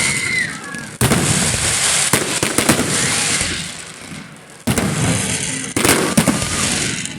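Fireworks going off: a sudden bang about a second in, followed by a long crackling fizz that fades, then another bang near the five-second mark with more sharp cracks after it.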